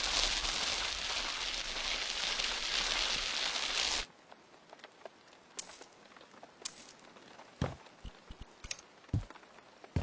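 A steady hiss for about four seconds that cuts off suddenly, followed by scattered light knocks and clicks.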